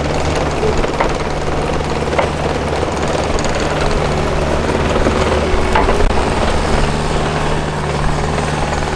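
Bulldozer's diesel engine running steadily with a low drone as the machine slowly pushes a junk car, with a few brief knocks.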